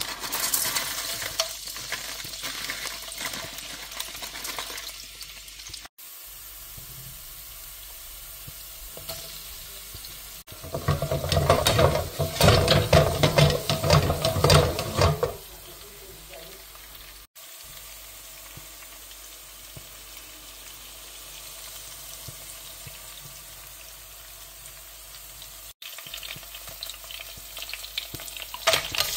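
Garlic, spring onions and red chillies frying in hot oil in a nonstick pan, a steady sizzle. About ten seconds in there is a louder stretch of about five seconds of sizzling with stirring and clatter. The sound cuts out for an instant a few times.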